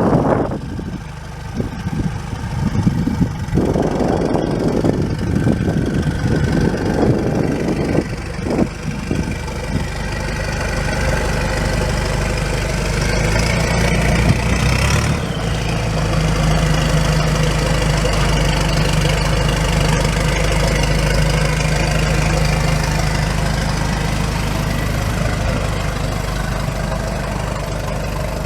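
1992 Isuzu NPR service truck's engine running at idle. Irregular gusty noise fills the first few seconds, and the engine settles into a steady idle from about halfway through.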